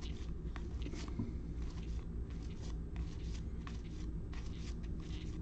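Light, irregular clicks and rustles of handling at a desk, over a steady low hum.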